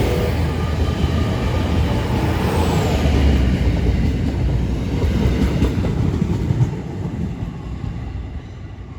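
Ten-car GWR Class 800 bi-mode train (two coupled five-car units) running on its underfloor diesel engines as it moves through the station, with a low rumble of engines and wheels on rail. The sound fades away in the last couple of seconds as it pulls away.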